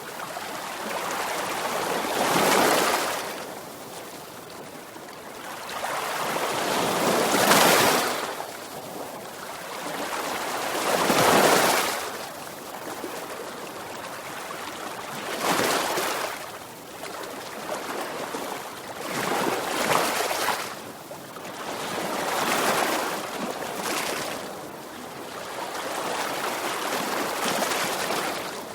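Sea waves breaking and washing up a shore: a swell of surf noise rises and falls about every four seconds, with a softer wash of water between.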